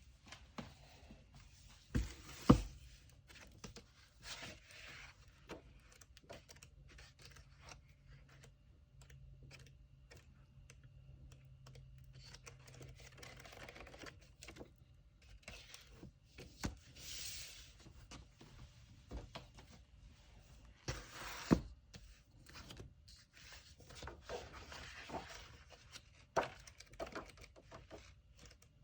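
Hands handling paper packaging materials on a table: scattered rustling and tearing of kraft paper and tape among light taps and clicks, with sharp knocks about two seconds in and again about twenty-one seconds in.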